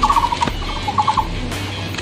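A bird calling over and over in short, fast runs of three to five clipped notes, a run every half second to a second.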